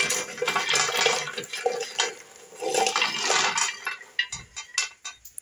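Running water with clinks of metal and crockery, fading after about three seconds; a few sharp knocks near the end.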